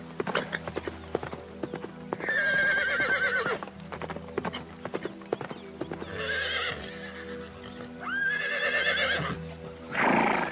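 Horse whinnying three times with a shaking, wavering pitch, over a run of hoof clip-clops and a short loud blast near the end, with background music playing steadily underneath.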